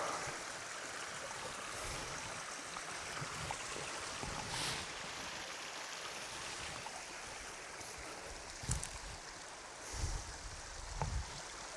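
Stream or small river rushing steadily, with a few dull low knocks about nine seconds in and again near the end.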